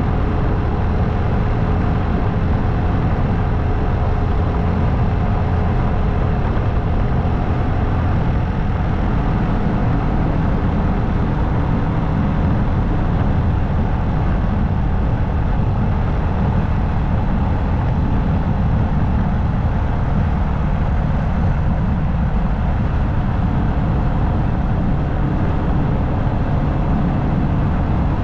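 Motorcycle under way at a steady pace: engine running with a constant rush of wind and road noise, unchanging throughout.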